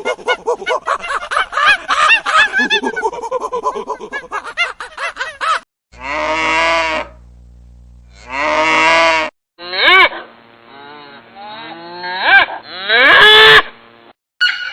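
Cattle mooing: two long moos of about a second each, then more moos that slide up and down in pitch, with abrupt cuts between them. Before the mooing is a dense, busy chatter of many overlapping animal calls.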